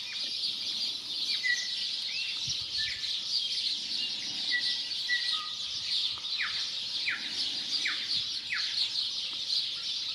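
A dense chorus of garden birds chirping, with clear whistled notes from a tui singing among them. In the second half come four quick downward-sliding notes, about half a second apart.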